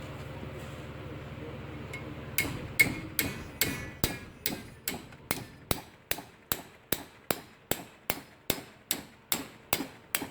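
Hammer blows on a torch-heated metal part to bend it, struck at a steady pace of about two a second. The blows start a couple of seconds in, over a steady low hum, and the first few ring out.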